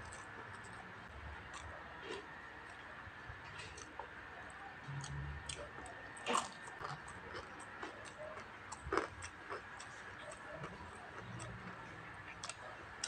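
Close-up eating sounds: soft chewing and small mouth clicks, with a louder crunch about six seconds in and another near nine as crispy fried dried fish (danggit) is bitten and chewed. A faint steady high hum runs underneath.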